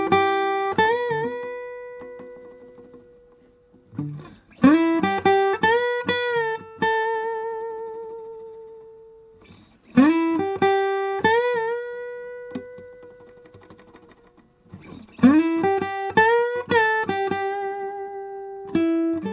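Guitar playing a slow single-note lick with string bends, repeated four times about five seconds apart. Each phrase bends up into a held note that rings out with vibrato and fades over several seconds.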